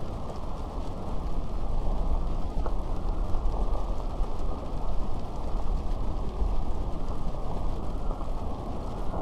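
Steady rain, a dense even hiss with a deep low rumble underneath.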